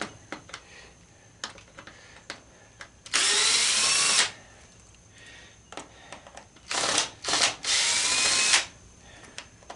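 Handheld power drill running in bursts while backing out fasteners: a run of about a second, then two short blips, then another second-long run, its whine rising as the motor spins up. Light clicks and knocks between the runs.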